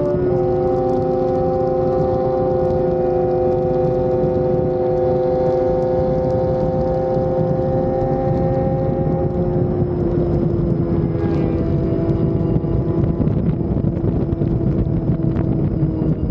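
Sport motorcycle engine running at steady high revs while riding; just after the start the pitch drops once, as in an upshift, then holds level, with more rough road and wind noise in the second half.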